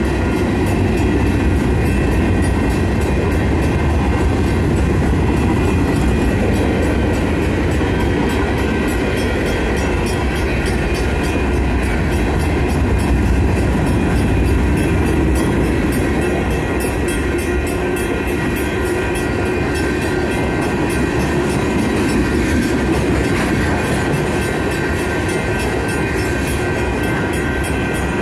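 BNSF freight train rolling through a grade crossing, its wagon wheels clacking over the rails with a steady low rumble. The crossing signal bells ring steadily over it.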